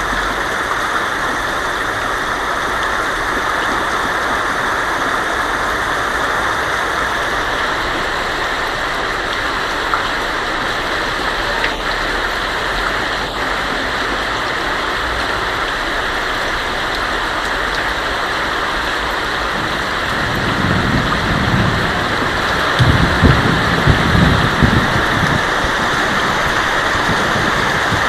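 Heavy rain pouring onto a tin roof, a steady dense hiss. About two-thirds of the way through, a low rumble of thunder rolls in and swells for several seconds before fading.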